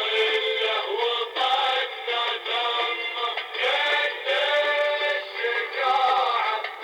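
Music with a male voice singing, sounding thin and tinny, with no bass.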